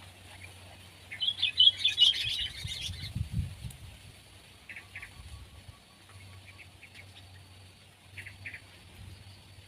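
Sooty-headed bulbul calling. About a second in comes a loud two-second burst of rapid chattering notes, followed by a few short, softer calls.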